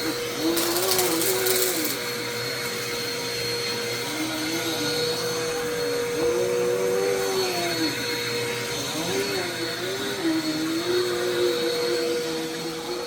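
Household vacuum cleaner running steadily, its motor tone bending up and down every second or two as it is worked back and forth. A short hiss comes in about half a second in and lasts about a second and a half.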